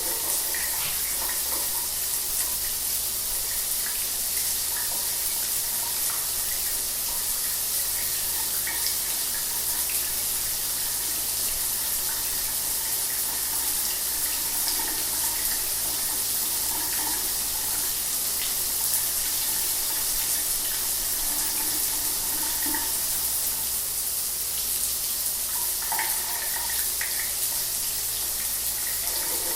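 Shower water running steadily, a constant hiss of spray with small splashes in it.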